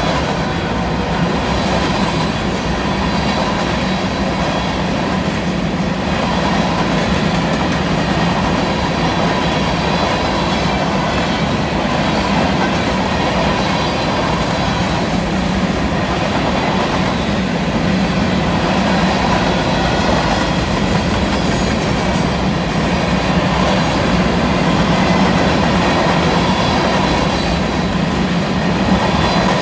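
Covered sand hopper cars of a freight train rolling steadily past, their wheels rumbling and clattering on the rail joints.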